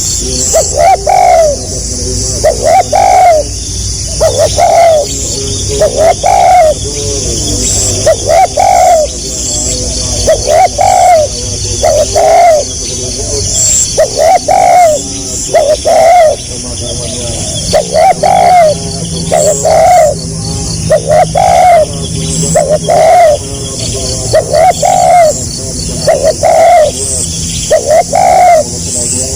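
Spotted dove (tekukur) cooing over and over in short, closely packed notes in pairs and groups about every second or two, the stuttering 'gagap rapat' coo style.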